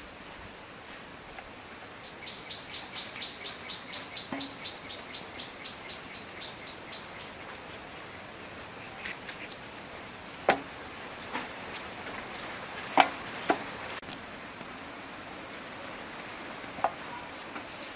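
A bird calling outdoors: a rapid run of short high notes, about four a second, slowing and fading after about five seconds, then scattered chirps. A few sharp knocks or clicks sound in the middle.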